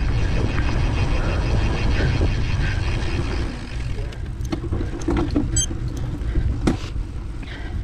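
Mountain bike rolling over a trail, with a heavy low rumble of wind on the microphone and tyre noise. In the second half the rumble eases and sharp clicks and knocks of the bike rattling over rough ground come through.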